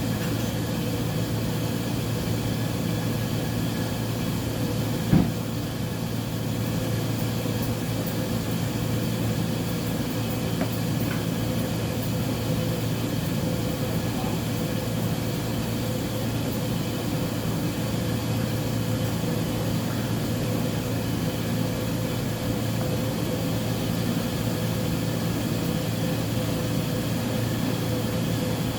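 Uni-Mac UniMat 35 (UC35MD2) commercial washing machine running a load, a steady mechanical hum, with one sharp knock about five seconds in.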